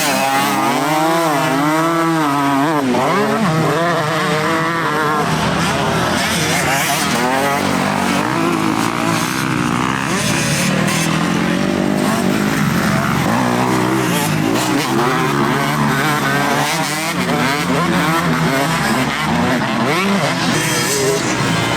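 Several motocross motorcycles racing, their engines revving up and falling off over and over with overlapping pitches. The sound is loud.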